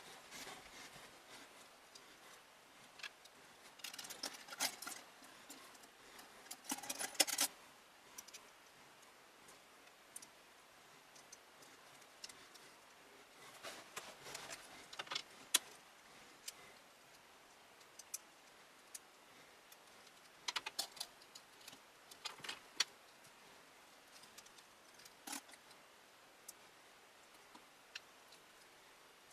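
Scattered clicks and light rattles of small hard parts being handled, with a few short clusters of rattling, the loudest about seven seconds in.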